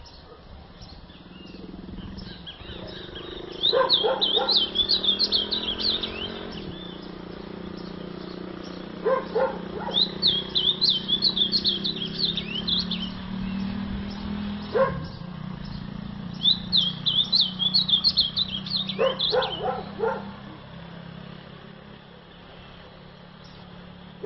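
Ultramarine grosbeak (azulão) singing three bursts of quick, high warbled phrases a few seconds apart. Short, lower-pitched calls break in four times, and a steady low hum runs underneath.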